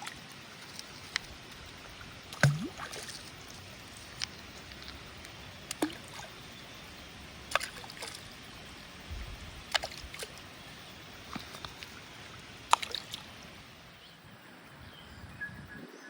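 Hatea River water flowing with a steady rush, broken by sharp plops and clicks every second or two.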